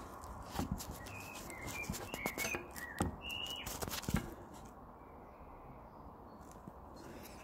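A few short bird chirps among a string of knocks and handling noises for about the first four seconds, then a quieter stretch with only faint background noise.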